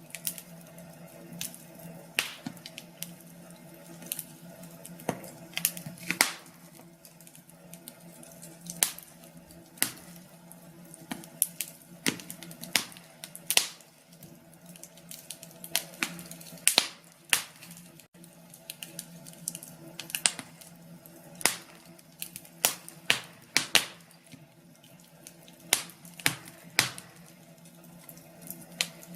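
Wood fire crackling in a fireplace, with irregular sharp pops and snaps, several close together at times.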